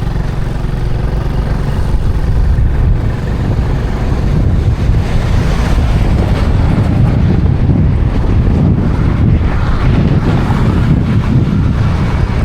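Motorcycle running at road speed, with heavy wind buffeting on the microphone. A steady engine hum is clearest at first, and the wind noise grows louder about two seconds in.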